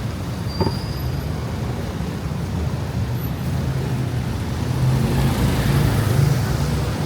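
City road traffic: a steady engine hum with a hiss of passing vehicles that grows louder about five seconds in.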